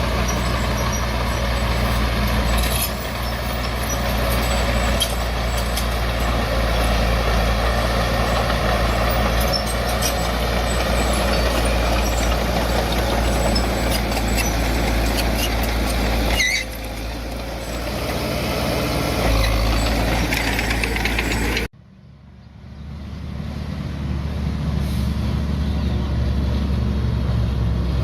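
Heavy diesel earthmoving machinery running steadily, with scattered metallic clanks and rattles. About three-quarters of the way through the sound cuts off suddenly, and a quieter engine sound builds back up.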